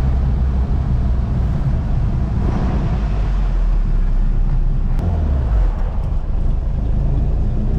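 A 1975 Ford Mk1 Escort heard from inside the cabin while driving: a steady engine hum with road noise, the engine note dropping about five seconds in.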